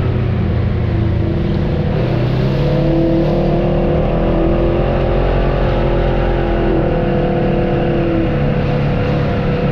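Off-road vehicle's engine running steadily, its pitch wavering a little up and down as the throttle changes.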